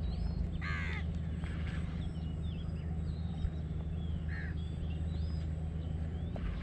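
Birds calling: scattered short chirps and whistles, with a louder call about a second in and another a little past the middle, over a steady low hum.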